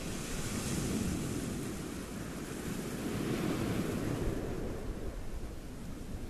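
Sea surf washing on the shore, swelling and easing, with wind buffeting the microphone.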